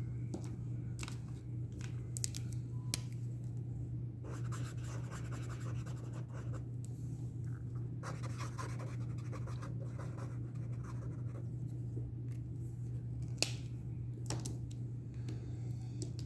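Acrylic paint marker nib scratching in short strokes as it draws, with a few small clicks and taps. A steady low hum runs underneath.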